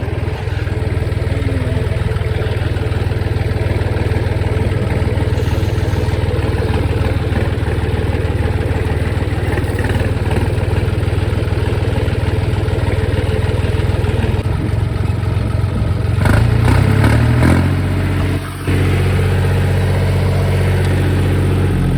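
John Deere 5039 tractor's diesel engine running steadily under load while driving a straw reaper. About three-quarters of the way through, the engine note shifts, with a few clattering knocks and a brief dip in level, before it settles into a steady run again.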